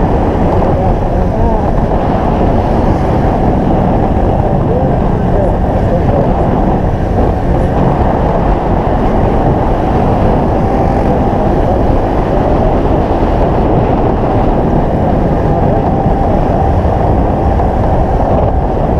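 Motorcycle engine and heavy wind buffeting while riding, picked up by a helmet-mounted GoPro Hero 4's built-in microphone without an external mic. A loud, steady, low rumble.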